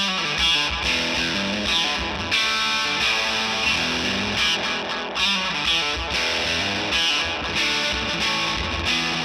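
Gretsch White Falcon electric guitar played with some distortion through a Benson tape delay pedal, a run of notes and chords trailed by echoing repeats. It fades a little near the end.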